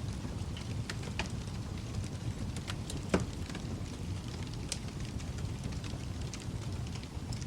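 Wood fire burning in a fireplace, a steady low rush of flame with scattered sharp crackles and pops, the loudest pop about three seconds in.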